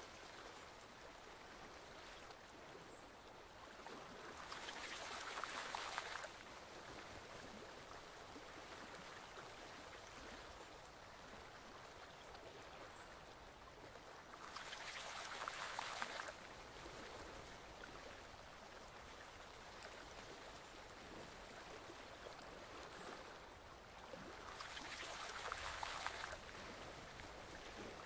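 Forest stream flowing steadily. A louder rush of water swells up about every ten seconds and cuts off suddenly.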